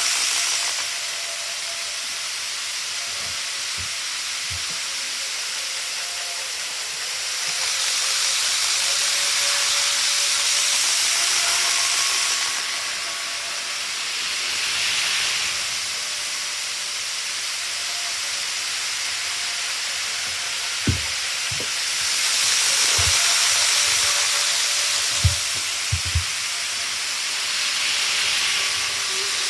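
Model train running on its track: a steady hiss that swells and fades several times, with a faint motor whine and a few sharp clicks in the last third.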